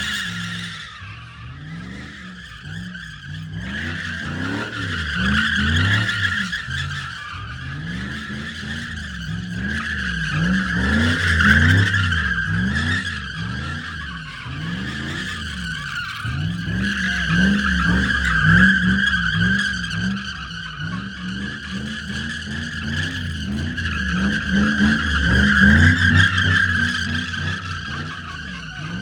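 A car spinning its tires: a long, continuous tire squeal over an engine revving up and down again and again, about one to two revs a second.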